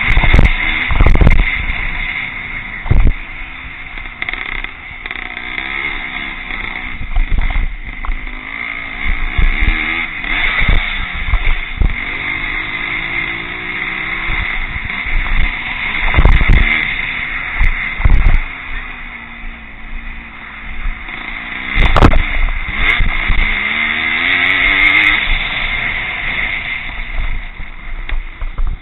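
Vintage pre-1965 motocross motorcycles racing, their engines revving up and down as they accelerate and back off. Several loud low thumps break through the engine sound.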